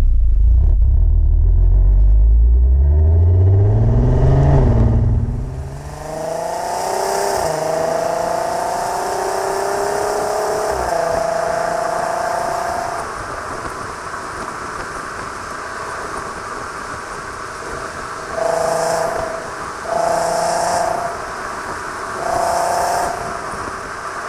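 Car with a 3.6 VR6 engine and a valved Varex exhaust accelerating. A loud, deep exhaust note rises in pitch for about five seconds, then drops sharply to a much quieter engine note that keeps climbing through gear changes. Three short louder bursts come near the end.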